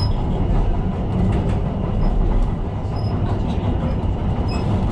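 Tyne & Wear Metro train running along the line: a steady rumble of wheels and motors, with a few brief faint high squeaks.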